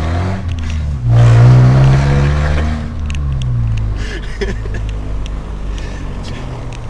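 Car engine heard from inside the cabin, revving up about a second in, then the pitch drops near three seconds as the revs fall. After that it runs steadily, with a few light clicks.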